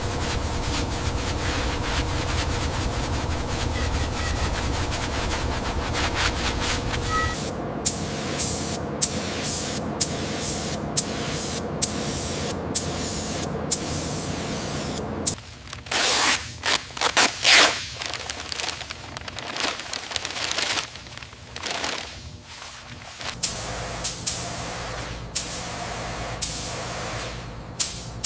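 Workshop machine noise with a steady hum for the first seven seconds or so, then a run of short hissing bursts from a spray gun being triggered on and off, loudest around the middle.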